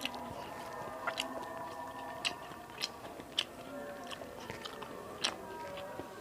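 Close-miked chewing and biting of rice and small steamed fish, with sharp wet mouth clicks every half second to a second. Background music plays underneath.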